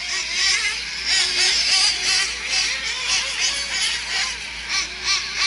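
Several nitro-powered RC race trucks' small two-stroke glow engines whining around the track, their high-pitched notes overlapping and rising and falling as the drivers work the throttle.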